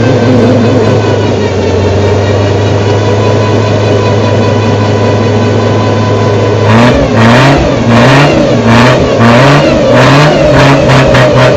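Truck engine held at steady high revs while spinning its tires, then, about two-thirds of the way in, blipped up and down in quick repeated revs.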